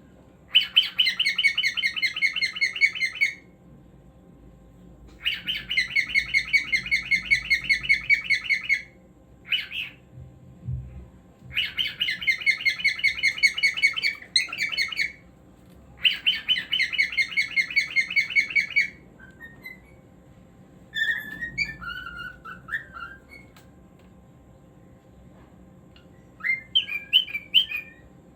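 Cockatiel singing: four phrases of rapid, repeated chattering notes, each about three seconds long, followed by scattered short chirps and a brief run of chirps near the end.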